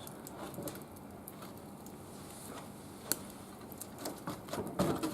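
Wood fire crackling in a barbecue grill, with scattered sharp pops, the loudest about three seconds in, and a short louder burst near the end.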